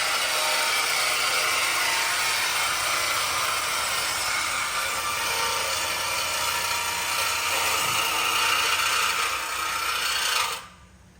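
A power cutting tool slicing through a car's exhaust pipe to remove the muffler. It runs steadily and stops abruptly near the end.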